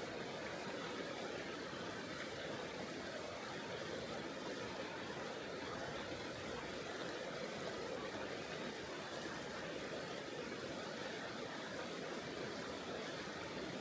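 Mountain river water rushing over rocks: a steady, unbroken flow.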